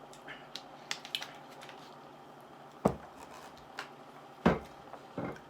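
Close-up eating sounds: a few small clicks and smacks, then two sharp knocks, the loudest about three and four and a half seconds in, like a utensil hitting the food container.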